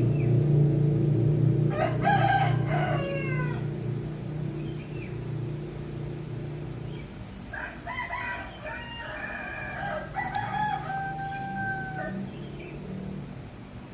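A rooster crowing twice: a shorter falling crow, then a longer crow ending on a long held note. A low steady hum underneath fades out about halfway.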